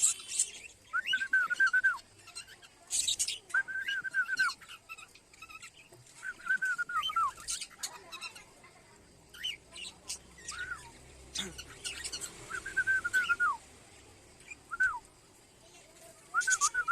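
Pet budgerigars and cockatiels calling: a repeated whistled call, each a short held note that drops off at the end, comes every second or two, mixed with quick high chirps.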